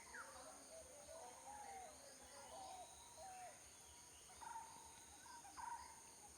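Faint birds calling outdoors: a string of short chirping and warbling phrases, with a few quick downward whistles later on. Under them runs a steady high insect drone.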